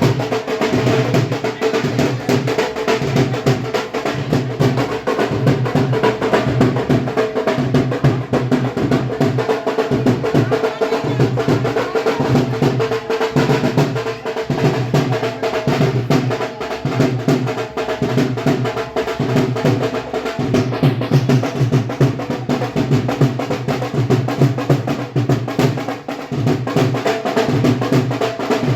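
Loud drum-led music with a steady, driving beat and snare-like rolls.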